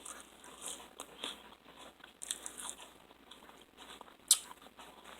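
A person chewing and biting food, soft crunching in short irregular bursts, with one sharper click about four seconds in.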